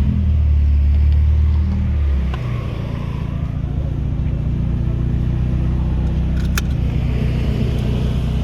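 Straight-piped VW Gol G2's AP four-cylinder engine running at idle, with a deep exhaust note. It is louder for about the first two seconds, then settles to a steady lower idle.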